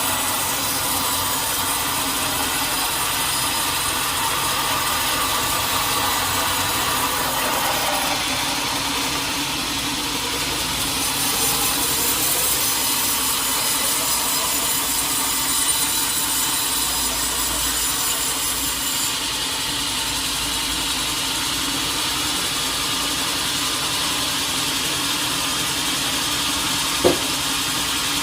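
Sawmill blade cutting steadily through a teak log, with one sharp knock near the end.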